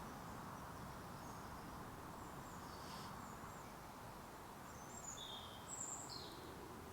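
Faint outdoor woodland ambience with a few short, high bird chirps, most of them about five to six seconds in.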